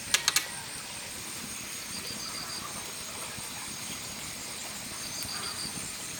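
Three quick sharp clicks or knocks right at the start, then steady outdoor ambience with a high insect buzz and a short pulsed insect trill that comes back about every three seconds.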